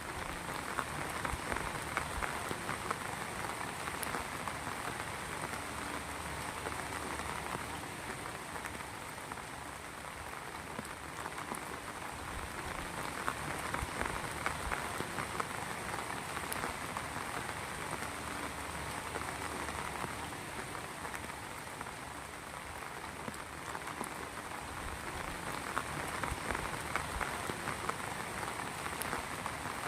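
Heavy rain falling steadily, a dense patter of drops on a surface that swells and eases slightly every several seconds.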